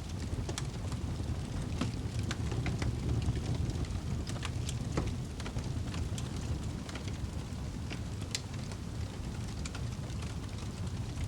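Fire burning in a fireplace: a steady low rumble with frequent small crackles and pops, one sharper pop about eight seconds in.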